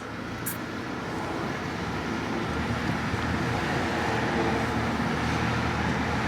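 Steady road noise from motor traffic, with no sudden events.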